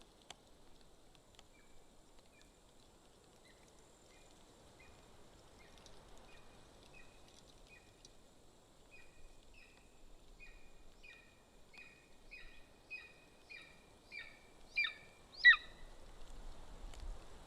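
Golden eagle calling at the nest: a long series of short, high yelps about two a second, starting faint and building steadily louder, the last two the loudest.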